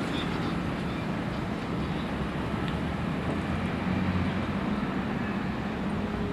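Heavy diesel engine of a fire truck running with a low, steady rumble that grows a little stronger about four seconds in; no siren is sounding.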